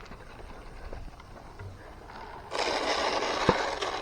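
Grain feed poured from a scoop into a feed pan, a rushing rattle of pellets lasting about a second and a half, with one sharp click in it.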